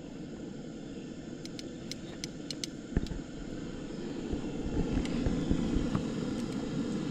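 Steady low rushing of a gas burner under a crawdad pot at a rolling boil, growing a little louder after the middle, with a few light ticks and a single thump about three seconds in.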